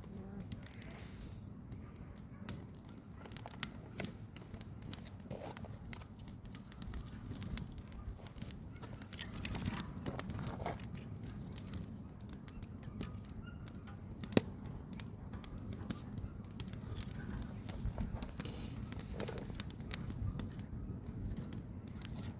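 Campfire wood crackling and popping, with irregular sharp pops over a steady low rumble; one pop, about two-thirds of the way through, is louder than the rest.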